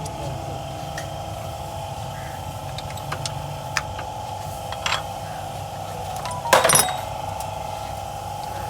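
A few sharp metallic clicks of hand tools, and a louder clatter of metal on metal about six and a half seconds in, over a steady workshop hum.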